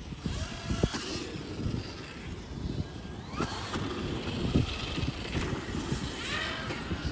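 Dirt bikes riding around a motocross track, their motors rising and falling in pitch over a steady noisy background.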